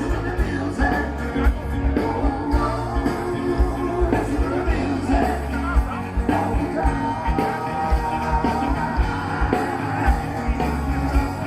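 Rock and roll song with a singer, guitar and a steady drum beat, played from a vinyl record.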